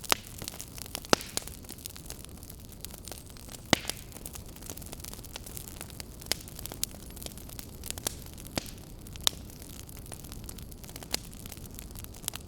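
Wood fire crackling in a fireplace: irregular sharp pops and snaps over a steady low hiss, the loudest pops just after the start, about a second in and near four seconds.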